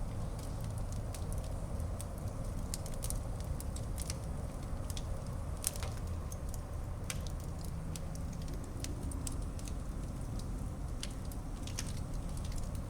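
Wood fire burning in a fireplace, with a steady low rumble and frequent scattered sharp crackles and pops.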